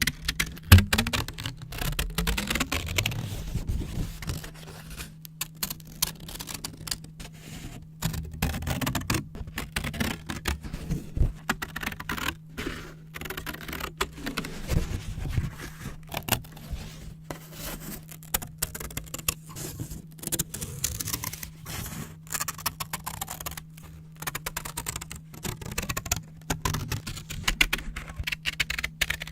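Scissors cutting brown paper: many short crisp snips and crackles, with paper rustling between cuts.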